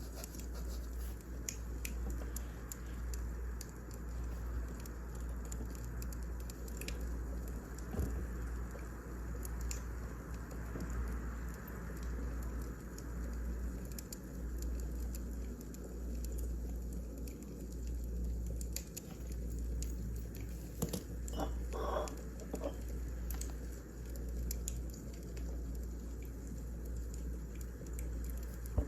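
Wood fire crackling, with scattered small pops and snaps over a steady low rumble, and a short cluster of sharper pops a little past two-thirds of the way through.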